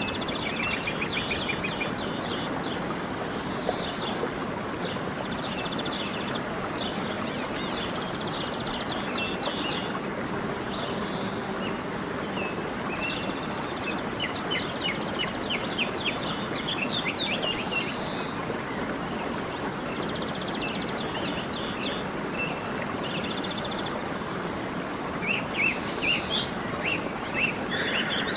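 Stream running steadily, with several small songbirds chirping and trilling over it, busiest about halfway through and again near the end.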